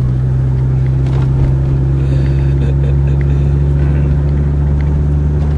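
1990 Mercedes-Benz 300D diesel engine running steadily while the car is under way, a constant low drone.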